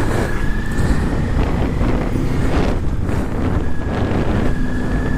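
Motorcycle running at road speed, with wind buffeting the microphone and a faint steady whine over the rumble.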